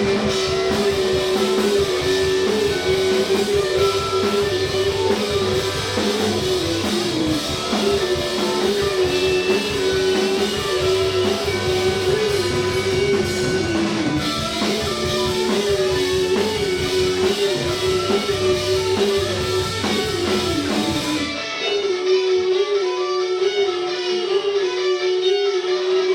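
Indie rock band playing live: electric guitar over bass and drum kit, with a repeating guitar figure. Near the end the drums and bass drop out suddenly, leaving the guitar playing alone.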